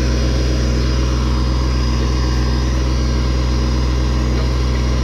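Kubota tractor's diesel engine running steadily while the backhoe is operated.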